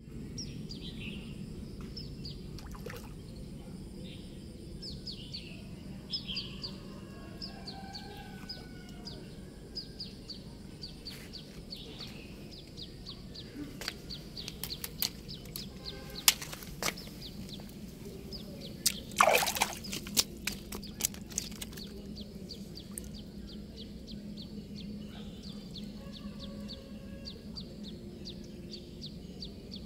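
Small birds chirping over and over, short high notes that sweep downward, over a steady low hum. Sharp clicks come near the middle, and a brief louder rustle or splash-like burst about two-thirds in.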